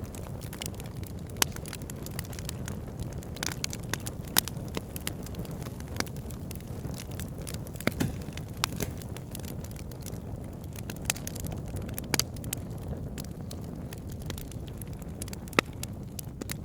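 Wood campfire crackling, with sharp irregular pops, over a steady low rumble.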